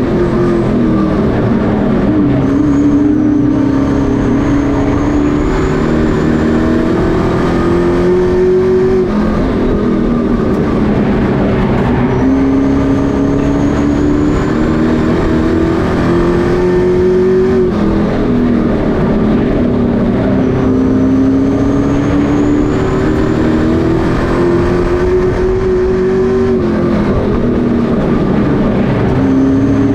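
Pro Truck racing trucks running laps of a short oval track. Their engines climb in pitch for several seconds down the straights, then drop off into the turns, over and over.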